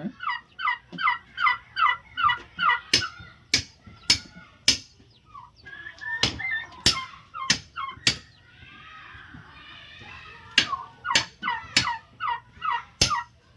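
Domestic turkeys calling in quick runs of short falling notes, about four a second, once at the start and again near the end. Loud sharp knocks, the loudest sounds, come about every half second to second from bamboo being split.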